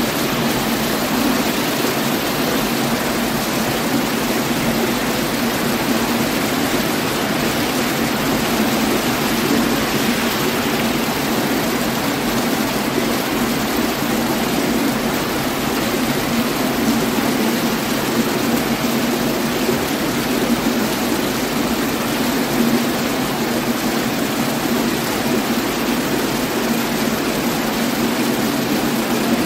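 Steady rain falling, an even hiss with a low rumble beneath it that does not change.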